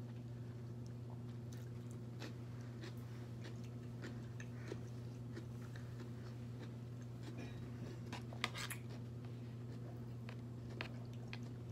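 A person chewing and biting food close to the microphone, with scattered small mouth clicks and a slightly louder click a little past halfway, over a steady low hum.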